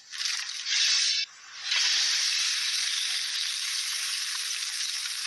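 A steady hissing noise, like rushing water or spray: two short surges, then a brief dip, then an even hiss from a little under two seconds in.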